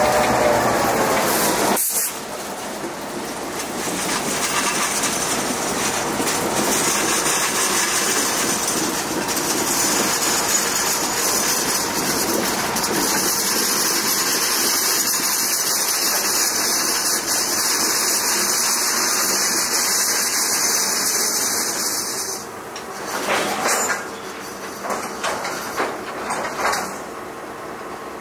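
Freight train of covered hopper cars rolling slowly past, its wheels running on the rails with a steady high hiss. The hiss cuts off about 22 seconds in, then there are a few clanks as the train comes almost to a stop.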